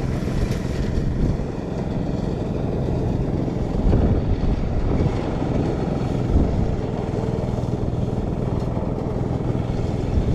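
Small engine running steadily at an even drone, with a few dull thuds about four and six seconds in.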